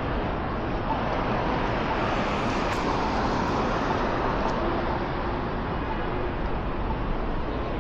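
Busy city street traffic: a steady wash of road noise from passing cars, swelling a little as a vehicle goes by in the middle.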